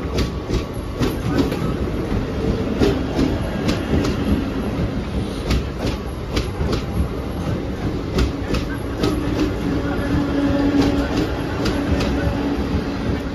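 Mumbai EMU suburban electric train running on the rails: a steady rumble with many sharp wheel clicks over the rail joints. A low hum comes up for a couple of seconds past the middle.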